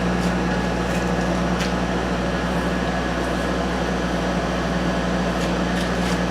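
A steady mechanical hum with a low, even drone, and a few faint light clicks.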